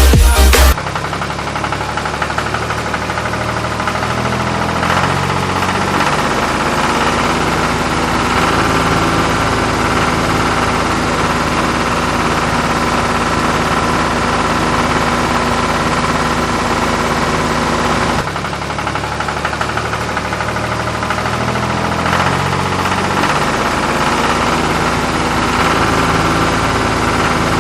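Tractor engine idling with a knocking clatter, a looped sound track that starts over about 18 seconds in.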